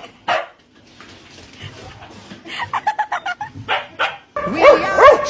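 A dog giving short yips and barks: a few quiet ones in the middle, then a louder run of barks near the end.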